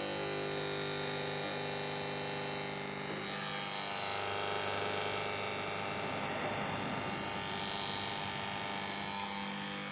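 Submersible pump starter panel switched on, its power contactor buzzing with a loud, steady mains hum. The remedy given is to wash the power contactor or replace it, so the noise is put down to a dirty or worn contactor.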